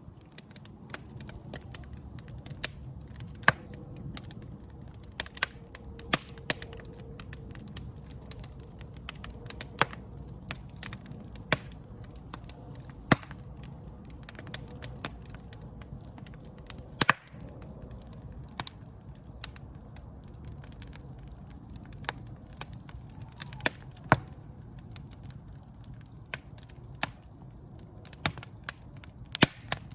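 Wood fire burning in a fireplace, crackling and popping irregularly over a low steady rumble of flames, with a handful of sharper, louder pops.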